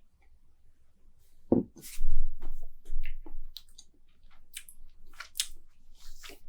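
Mouth sounds of someone tasting beer: a scatter of lip smacks and tongue clicks, with a louder, lower sound about two seconds in.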